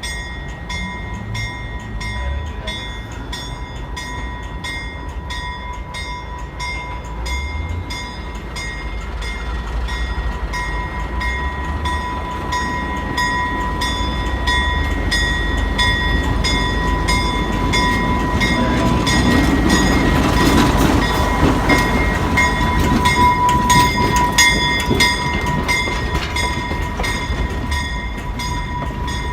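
Alco S-6 diesel switcher locomotive running as it shunts, its engine rumble swelling about two-thirds of the way through as it comes close. A bell rings rapidly and evenly, a few strokes a second, all through.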